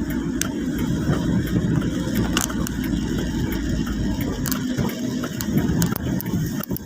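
Heavy rain: a steady low rumble with many scattered sharp ticks of drops striking close by.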